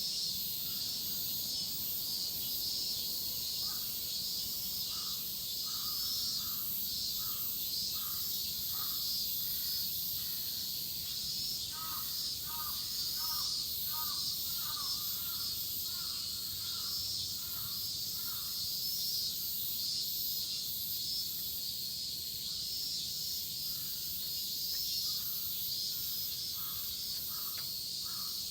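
Dense chorus of cicadas, a steady high-pitched shrill, with a bird calling in short repeated notes, two or three a second, through most of it.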